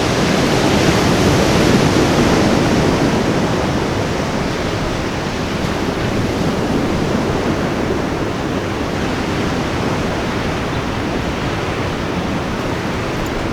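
Ocean surf washing on a beach, a steady roar of breaking waves that swells in the first couple of seconds and then settles, with some wind on the microphone.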